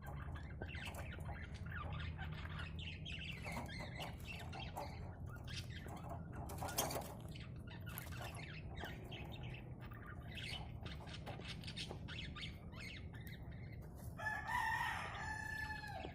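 Budgerigars chirping in short clicks and chirps while cracking sunflower seeds. A rooster crows once near the end, one long call that falls away.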